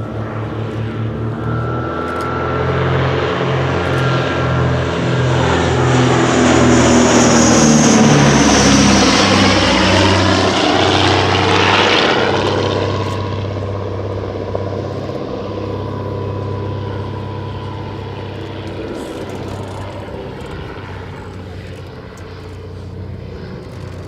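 Vintage twin piston-engined propeller aircraft flying past. The engine drone swells to its loudest about eight to twelve seconds in, drops in pitch as the aircraft goes by, then fades away.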